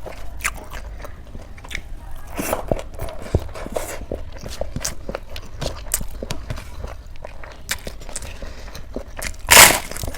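A person eating close to the microphone: wet chewing and mouth clicks, with one loud crunchy bite about nine and a half seconds in.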